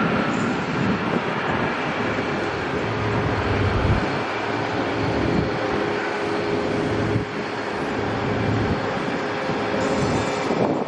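Jet airliner engines running as it passes, a steady loud noise with a faint steady whine joining about four seconds in, mixed with wind on the microphone.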